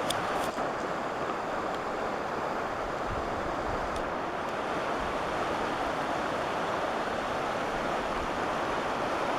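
Steady rush of the Schoharie Creek's floodwater running high above flood stage.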